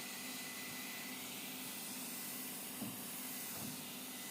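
Electric paint sprayer running steadily: an even, vacuum-like hiss of air with a faint high whine from its motor.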